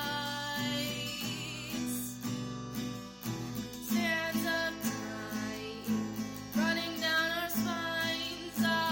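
Acoustic guitar strummed in a steady rhythm while a voice sings a melody over it.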